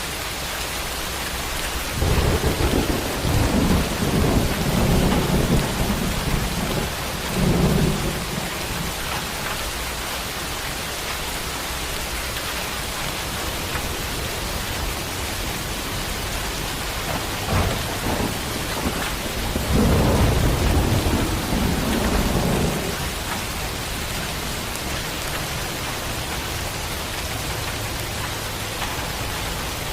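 Steady rain hissing, with two long rolls of thunder rumbling over it: the first starts suddenly about two seconds in and lasts about six seconds, the second comes a little past the middle and lasts about five seconds.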